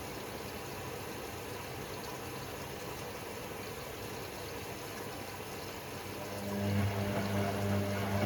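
Hoover Sportswear 1300 washing machine running, with a steady rush of water, until about six seconds in a louder, steady pump hum starts and carries on.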